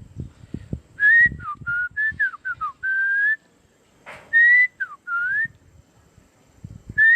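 A person whistling short birdlike phrases of quick rising and falling notes, imitating a bird's song to lure birds. There are three phrases with gaps of about a second between them.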